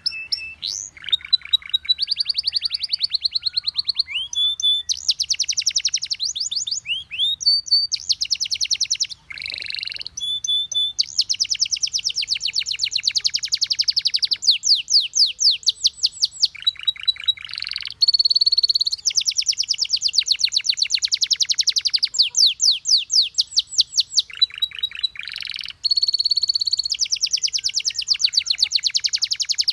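Domestic canary singing a continuous song of rapid, evenly repeated trills, each lasting a second or more and changing pitch from one trill to the next, with short sweeping notes in between.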